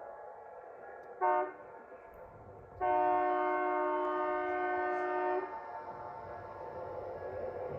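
Air horn of 1950s Alco FA diesel locomotives sounding a chord of several steady tones: a short blast about a second in, then a long blast of nearly three seconds. The train's rumble builds after the horn stops.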